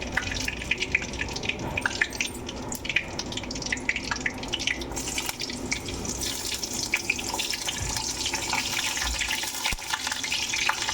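Hot oil sizzling and crackling in a pan with whole spices frying in it. The crackle turns into a denser, steadier sizzle about five seconds in.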